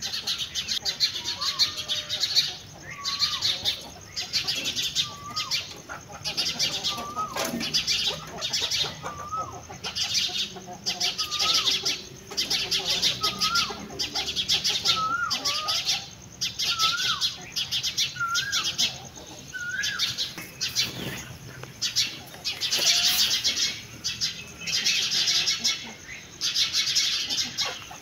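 Songbirds chirping: a dense twittering chorus that swells and fades every second or two, with one bird repeating a short, hooked whistle about every second and a half until about twenty seconds in.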